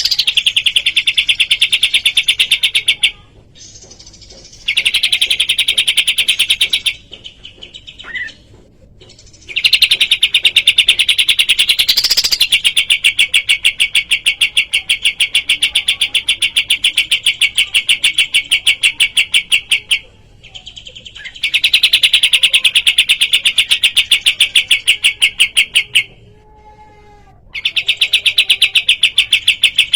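Kapas tembak bird singing long, fast trills of evenly repeated notes, about five or six a second. Each run lasts several seconds, with short breaks between them.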